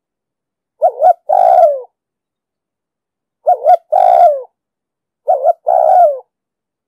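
Spotted dove cooing: three calls about two seconds apart, each a quick double note followed by a longer note that falls in pitch.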